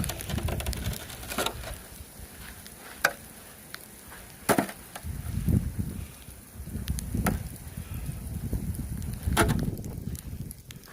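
Snow being cleared off a car by hand: crunching scrapes of packed snow with a few sharp, irregular knocks of the tool.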